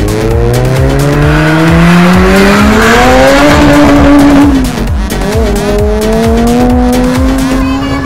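Race car engine at hard throttle, its pitch climbing steadily for about three and a half seconds, then dropping back and holding steady near the end.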